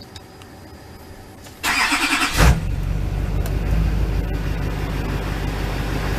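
A 2005 Chevrolet Silverado 2500 HD's 6.6-litre Duramax V8 turbodiesel is cranked by the starter about a second and a half in and catches within a second. It then settles into a steady idle.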